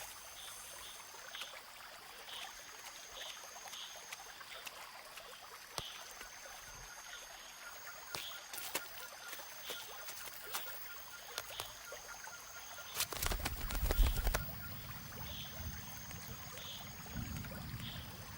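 Rainforest animal chorus: repeated high buzzing calls about two seconds long alternating with short pauses, over evenly spaced chirps. About two-thirds of the way through there is a louder low rumble with scattered clicks.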